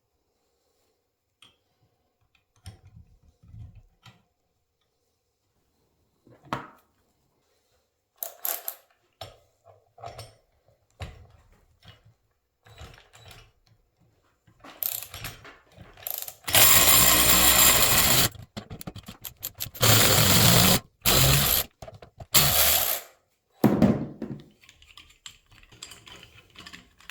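Workshop tool work on motorcycle parts: scattered clicks and knocks of tools and metal parts being handled, then several loud noisy bursts, the longest nearly two seconds, about two-thirds of the way in.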